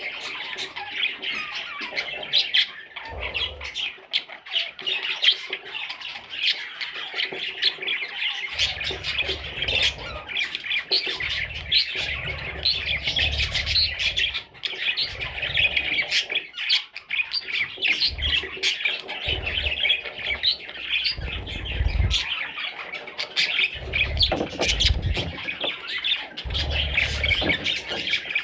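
Budgerigars chattering: a busy, unbroken stream of high warbling with many short sharp notes.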